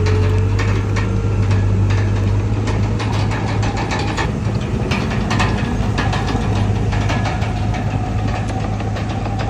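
Komatsu D31PX bulldozer's diesel engine running steadily at work, with a deep hum, a faint whine that edges slightly higher in pitch, and irregular metallic clicks and rattles.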